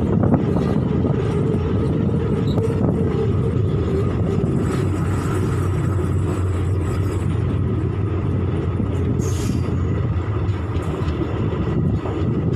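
Steady low rumble of an Indian Railways passenger coach rolling along the track, heard from the coach, with a few faint sharp clicks and a brief hiss about nine seconds in.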